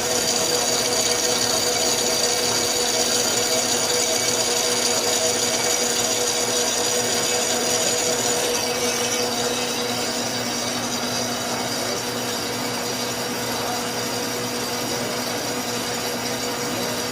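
Lathe running steadily with a tool cutting the workpiece; the high hiss of the cut fades about halfway through, leaving the machine's steady hum.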